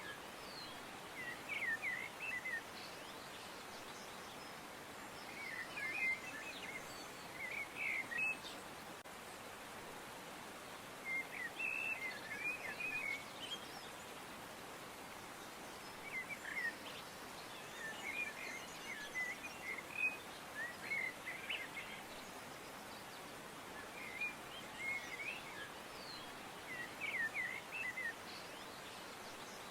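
Birds chirping: short runs of quick, high chirps every few seconds over a steady faint hiss.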